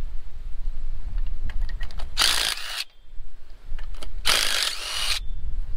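A cordless power tool run in two short bursts, the second a little longer, over a low rumble.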